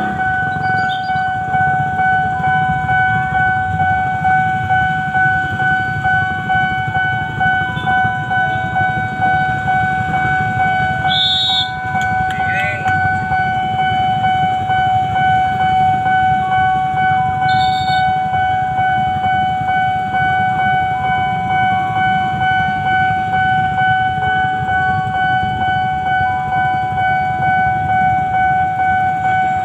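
Railway level-crossing warning alarm sounding one unbroken steady tone, over a continuous low rumble of rail traffic.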